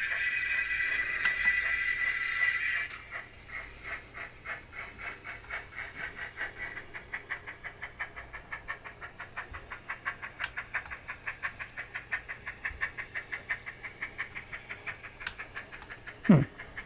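Sound decoder of a Graham Farish N gauge SECR N class model steam locomotive, heard through its small onboard speaker: the injector sound, a steady hiss, stops about three seconds in, and the rapid, even exhaust chuffs of the locomotive running at speed carry on. Near the end, a short sound falls steeply in pitch.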